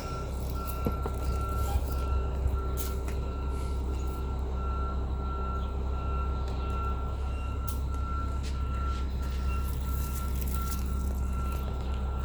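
A vehicle's reversing alarm beeping in a steady, regular rhythm over a low engine rumble, with scattered light clicks close by.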